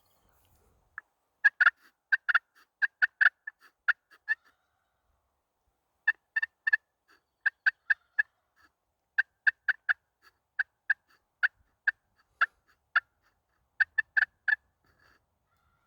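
Turkey yelping: runs of short, clipped yelp notes, a few to about ten at a time, with brief pauses between the runs.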